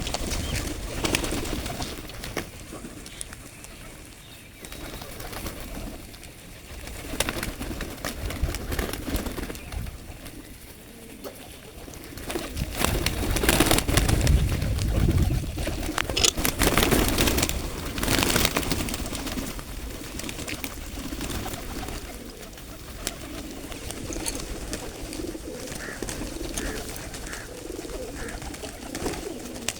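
Pigeons cooing, with stretches of louder rustling noise about halfway through.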